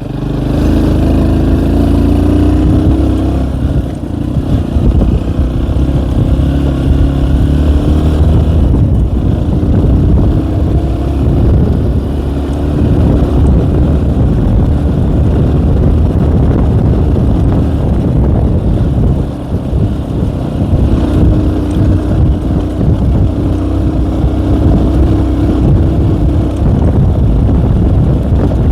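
Tomos ATX small enduro motorcycle's engine running while being ridden, its pitch rising in the first few seconds and climbing again about three-quarters of the way through.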